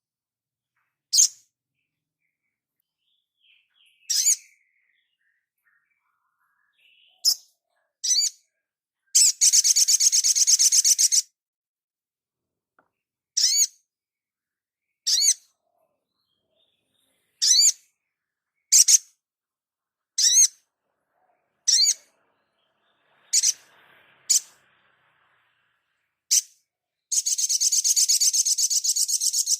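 Crimson sunbird (sogon) song: high, sharp single chirps every second or two, broken twice by a fast, rattling trill about two seconds long, once about nine seconds in and again near the end.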